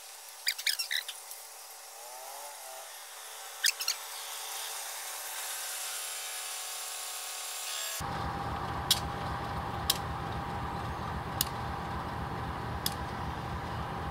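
A diesel locomotive hauls a passenger train slowly into the station. Its engine runs steadily under a held whine, with a sharp click roughly every second or so. Before that, for about the first eight seconds, there is only a thinner, quieter sound with a few brief chirps and a slowly rising noise.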